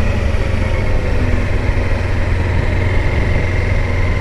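Kawasaki Versys-X 300's parallel-twin engine running steadily, a constant low hum with a faint high whine above it.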